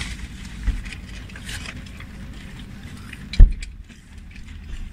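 Crunching bites and chewing of crispy fried chicken over the steady low rumble of a car cabin. One sharp thump about three and a half seconds in.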